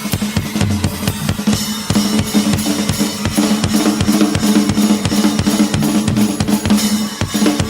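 Live band playing an instrumental passage with the drum kit to the fore: rapid kick, snare and cymbal strokes over a held low bass note that changes about two seconds in.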